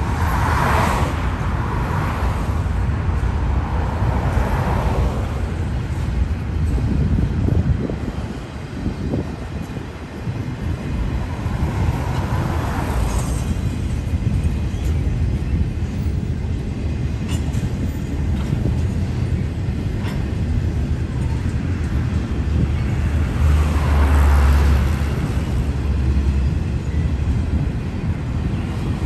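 Union Pacific double-stack container freight train rolling past with a steady low rumble of wheels on rail. A few times, about a second in, around 4 s, near 13 s and near 24 s, it swells into a louder swish as road cars pass close by.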